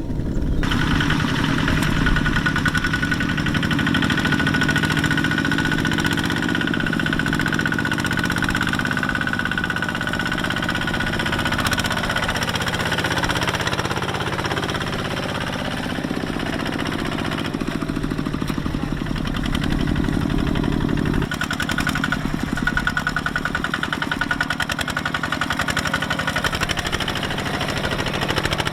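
Small Kubota tractor diesel engine running with a rapid, even chugging beat. A thin high whine rides over it for much of the first half and again near the end.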